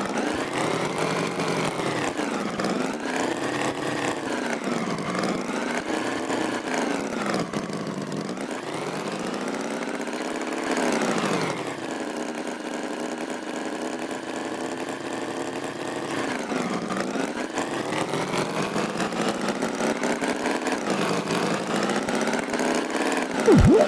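Engine running with its pitch rising and falling over and over as it revs up and down, holding steady for a few seconds midway. A short, louder sound cuts in just before the end.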